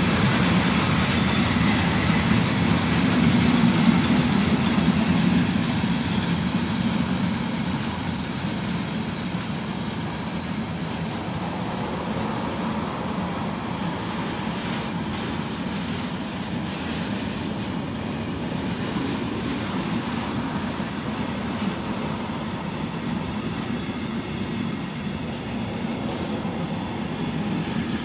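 Container wagons of a long intermodal freight train rolling past, with the steady noise of the wheels running on the rails. It is a little louder over the first six seconds or so, then steadies at a slightly lower level.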